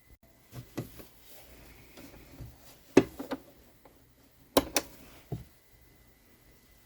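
Several short knocks and taps of things being handled and set down while fabric pieces are laid out for sewing, the loudest about three seconds in and a close pair a second and a half later.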